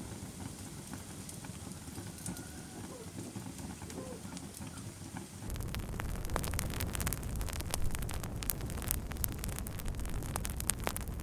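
Wood fire crackling, with scattered sharp pops. About halfway through it suddenly gets louder, with a low rumble underneath and denser popping.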